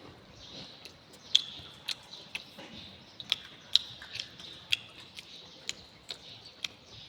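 Eating sounds: a string of sharp, irregular clicks and smacks, about two a second.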